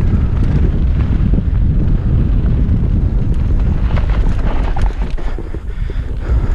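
Wind rushing over the microphone of a camera on a mountain bike descending a dirt trail at speed, with tyre noise and bursts of clattering from the bike over rough ground about two-thirds of the way through. The rush eases briefly near the end.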